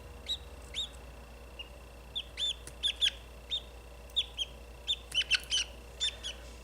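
Budgerigar chick cheeping in protest at being handled: a string of short, sharp chirps, some in quick clusters, loudest about three seconds in and again near five seconds.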